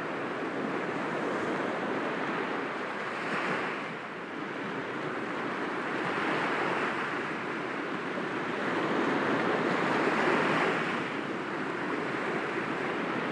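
Sea waves breaking gently against rocks: a continuous wash of surf that swells with a new wave every three to four seconds.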